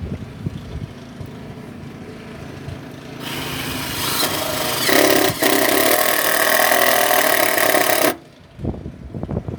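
Wind buffeting the microphone, then a power drill runs for about five seconds, building up as it bites and stopping suddenly.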